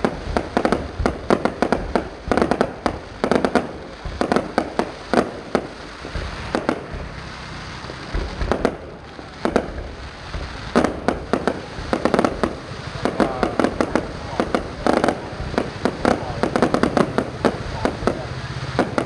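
Fireworks display: many sharp bangs and crackles in quick succession. There is a thinner lull about six to ten seconds in, then the rapid bangs build up again.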